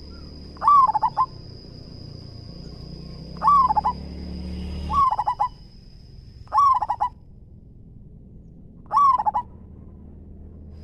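Zebra dove (perkutut) singing: five short phrases of quick, staccato cooing notes, one every second and a half to three seconds.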